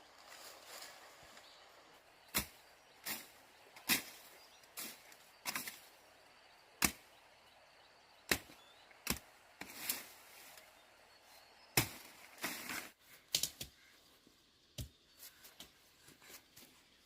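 A tool striking wood in a series of sharp, irregular knocks, roughly one a second, with a few quicker double strikes.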